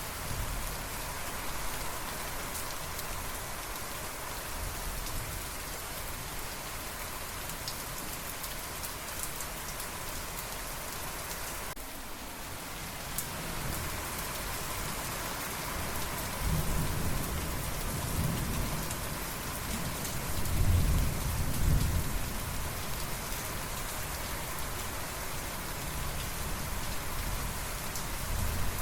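Steady rain falling, with a low roll of thunder rising about halfway through, loudest some two-thirds of the way in, then fading.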